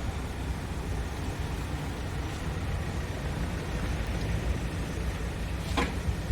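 Scania S500 truck's 13-litre six-cylinder diesel engine idling with a steady low rumble, and one short sharp sound near the end.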